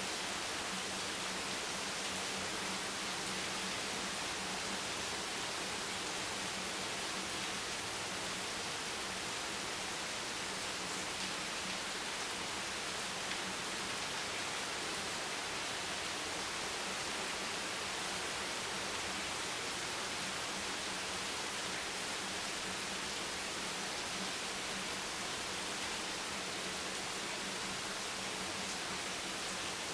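Steady, even rain hiss with no single drops standing out, and a faint steady low hum underneath.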